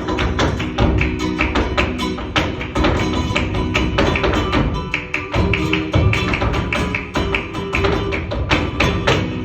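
Flamenco performance: music with a dense run of sharp percussive taps, typical of a dancer's heel-and-toe footwork, over pitched accompaniment.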